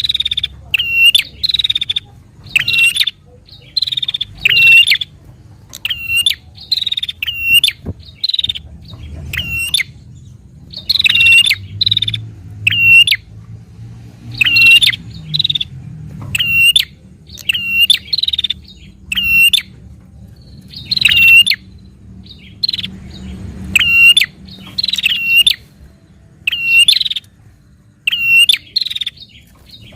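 Prenjak (prinia) calling in a fast challenge series: short, sharp, repeated notes, one or two a second, kept up without a break, the kind of call bird-keepers play to rouse a kept prenjak into answering.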